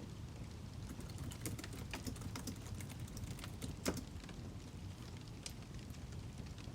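Burning firewood crackling: irregular sharp pops and snaps over a low steady rumble, with one louder pop about four seconds in.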